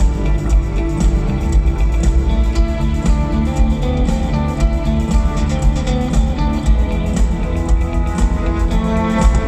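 Live rock music with guitar over a heavy bass, played together with a symphony orchestra; an instrumental passage with no singing.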